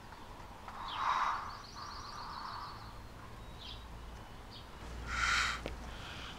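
Small birds chirping, with a quick high trill about a second and a half in and a single chirp a little later. A short breathy noise comes about five seconds in.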